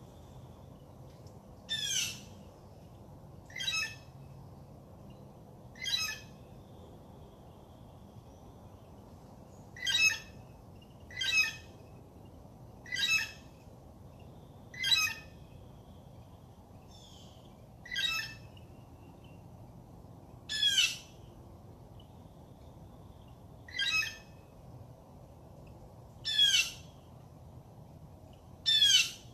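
A bird repeating a short, harsh call about a dozen times, one every two seconds or so, each call dropping in pitch.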